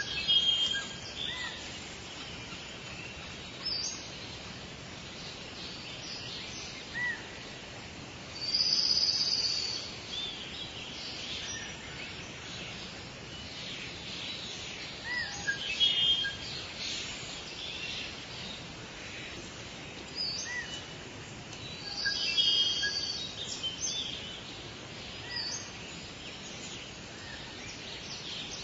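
Woodland birds singing and calling over a steady background hiss. Bursts of high chirps and trills come and go every few seconds, with short single whistled notes between them.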